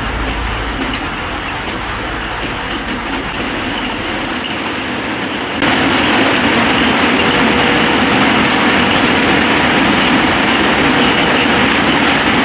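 Steady rushing, rumbling noise of a vehicle in motion, without clear engine tones, becoming abruptly louder about five and a half seconds in.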